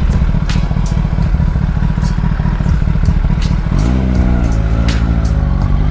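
Motorcycle engine running while riding, a dense low rumble. About four seconds in the engine note drops and settles into a steadier, lower pitch.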